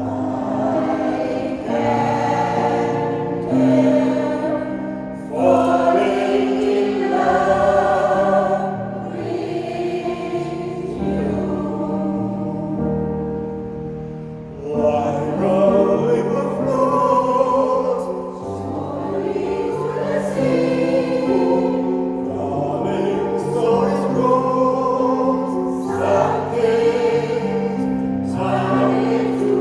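Senior choir singing a piece in several voice parts, in sustained phrases; it grows quieter about halfway through, then swells again.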